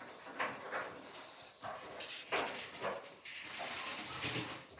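Felt-tip marker strokes scratching and rubbing across paper as an area is coloured in, in a run of short uneven strokes.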